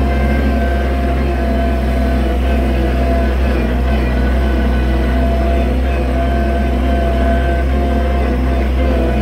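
Oliver 770 tractor engine running steadily at a constant speed.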